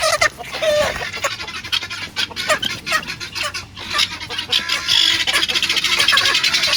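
Chickens squawking and clucking in alarm as they are chased and netted for wing clipping, with a fast, even flutter of strokes through the second half.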